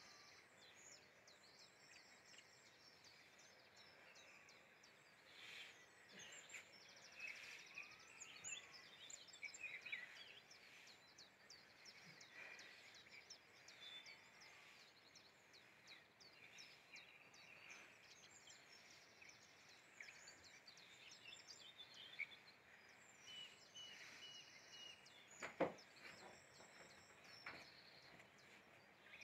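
Faint outdoor birdsong: many short chirps and whistles from small birds over a steady low hiss, with one sharp knock near the end.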